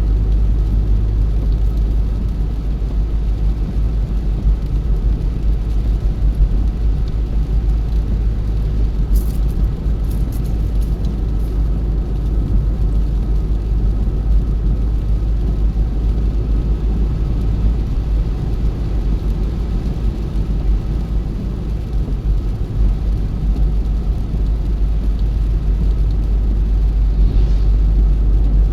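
Car driving at a steady speed, heard from inside the car: a low, steady rumble of tyres and engine.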